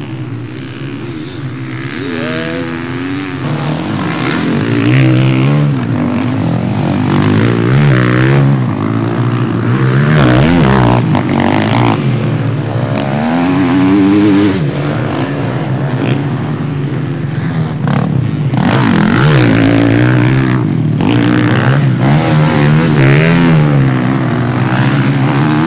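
Several motocross bikes racing round the track, their engines revving up and down through the gears, overlapping one another, building up over the first few seconds and staying loud.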